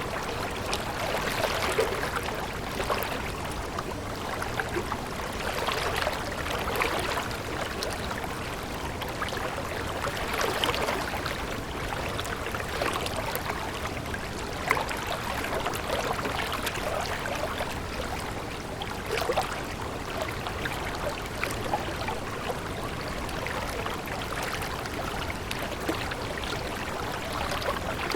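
A stream flowing steadily, with continual babbling and gurgling.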